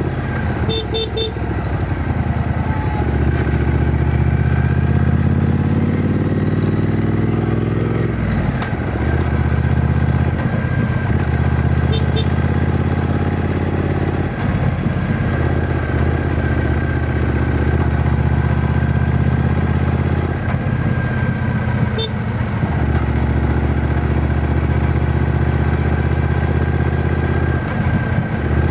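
Triumph Bonneville T120's 1200 cc parallel-twin engine pulling under way. Its pitch climbs and then drops at gear changes about four times: near 8 s, 14 s, 20 s and just before the end.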